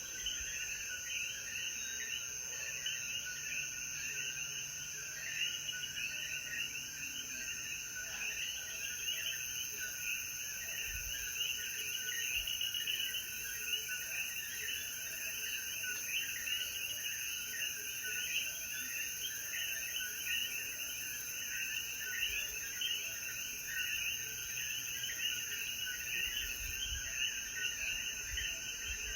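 Chorus of common coquí frogs: many short calls overlapping without pause, over a steady high-pitched insect hum.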